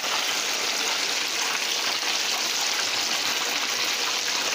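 Tilapia fillets deep-frying in a pan of hot oil: a steady, even sizzle.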